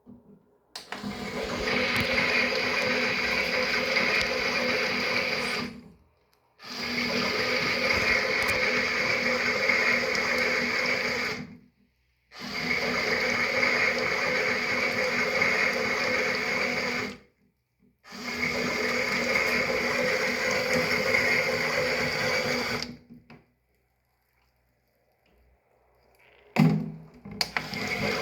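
Toy washing machine running a wash cycle: its small motor turns the drum with a steady hum in spells of about five seconds, stopping abruptly for about half a second between spells. Near the end it pauses for about three seconds, then starts up again.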